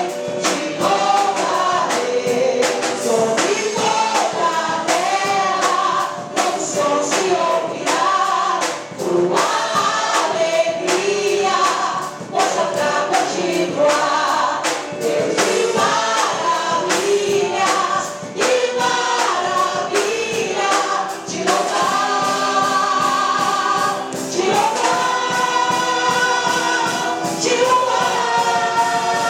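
Gospel choir singing an upbeat Portuguese-language worship song over a band with a steady drum beat, holding long notes near the end.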